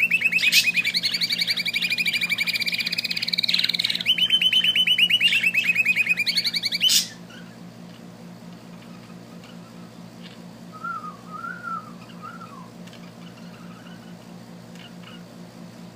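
A small bird singing a fast, continuous trilled song that stops abruptly about seven seconds in. After that only a low steady hum remains, with a brief soft wavering whistle a few seconds later.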